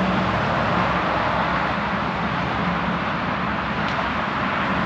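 Steady outdoor background noise, an even rushing like nearby road traffic, with a low hum running through it.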